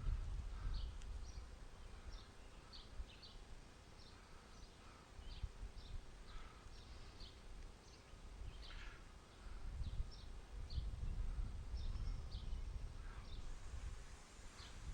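Wind buffeting the microphone in gusts, with small birds chirping repeatedly in short, high notes.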